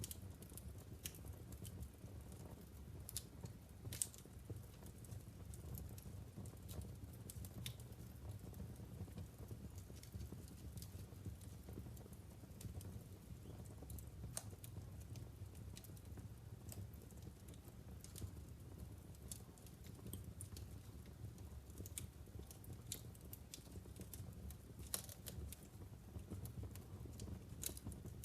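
Wood fire burning in a fireplace: logs crackling with scattered sharp pops, a couple louder than the rest, over a steady low rumble of the flames.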